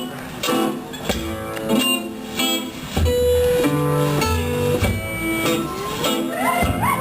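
Live music played on a plucked string instrument: a run of picked and strummed notes and chords, with a sliding, rising line near the end.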